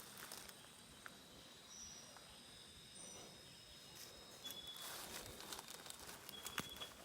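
Faint, steady high-pitched trilling of insects. From about halfway, scattered short crackles and rustles come in, like footsteps moving through wet undergrowth.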